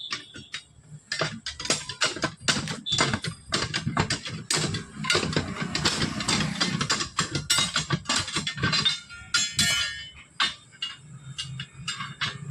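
Rapid series of metal knocks and clinks, several a second, from tools striking a truck wheel rim and its lock ring while a tyre is fitted. The strikes come thickest in the middle and thin out near the end.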